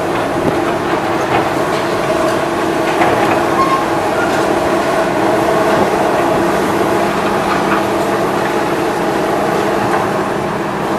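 Heavy demolition machinery running steadily, a droning mechanical hum with scattered light knocks and clatter.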